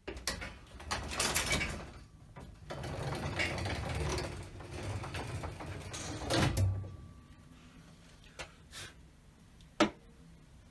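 Rattling, scraping and knocking of things being handled and moved about in a workshop, busiest in the first seven seconds, then a few small knocks and one sharp knock near the end.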